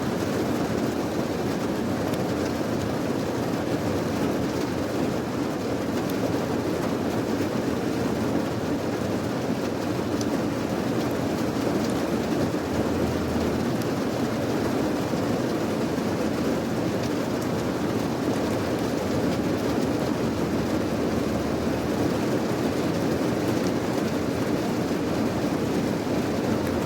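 Steady rain, an even unbroken noise weighted toward the low end.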